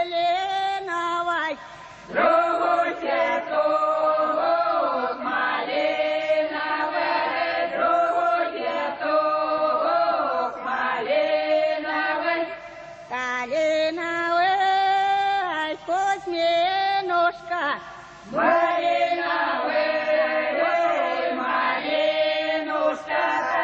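Choir singing a slow, drawn-out vocal piece in long held phrases, with short breaths between phrases about 2, 13 and 18 seconds in.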